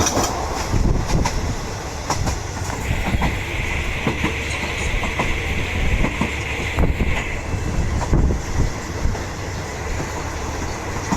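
Passenger train running at speed: a continuous rumble with wheels clicking and clacking over the rail joints. A steady high-pitched whine joins in for about four seconds in the middle.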